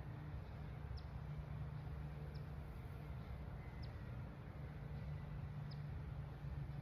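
A bird giving four short, faint, high chirps, each sliding down, about a second and a half apart, over a steady low rumble.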